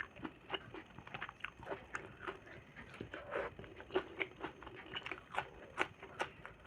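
A person chewing and smacking their lips close to the microphone, with short irregular mouth clicks several times a second.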